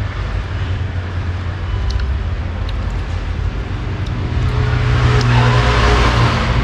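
Road traffic running steadily, with a motor vehicle's engine growing louder over the last couple of seconds as it passes close by.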